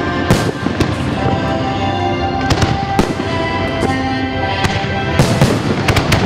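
Aerial fireworks shells bursting: a series of sharp bangs, bunched closer together near the end, over background music.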